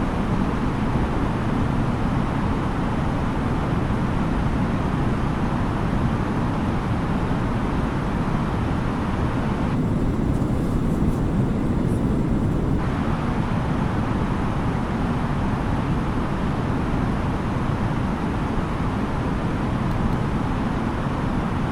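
Steady cabin noise inside an Airbus A330-900neo airliner: a constant low rush of airflow and engine noise. The higher hiss briefly dims for about three seconds near the middle.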